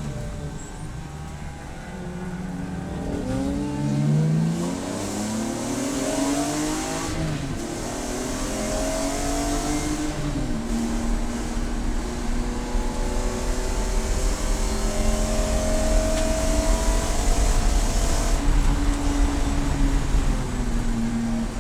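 Race car engine under hard acceleration. Its pitch dips at first, then climbs in several rising sweeps as it works up through the gears. From about ten seconds in it holds a high, slowly rising note at speed, getting louder toward the end.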